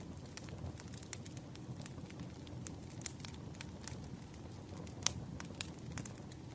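Burning firewood crackling: scattered sharp pops and snaps over a steady low rumble, with the loudest pop about five seconds in.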